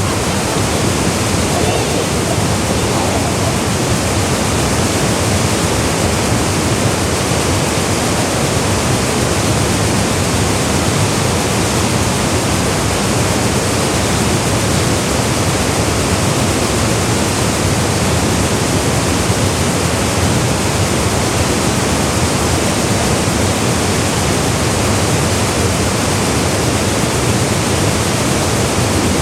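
Ushigataki waterfall: water falling into its pool in a loud, steady, unbroken rush.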